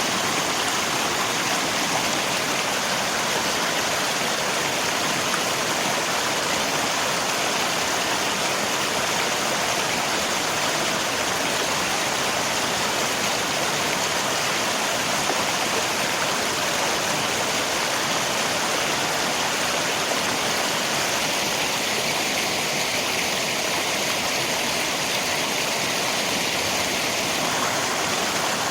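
Rain falling together with a river's flowing water, a steady, even rushing hiss with no breaks or single drops standing out.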